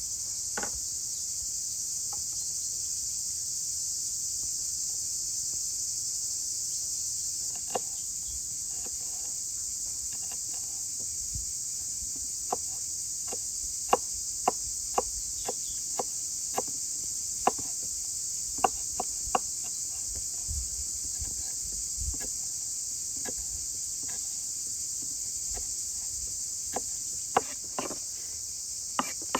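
Steady high-pitched chorus of crickets and other insects. From about a quarter of the way in, a run of sharp knocks, roughly one or two a second, comes through over the chorus, with more near the end.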